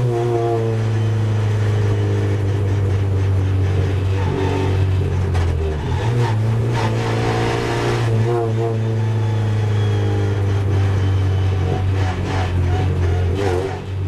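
Renault Clio Cup race car's engine heard from inside the cabin, running at low revs while the car rolls slowly. A steady low drone with a few brief shifts in pitch.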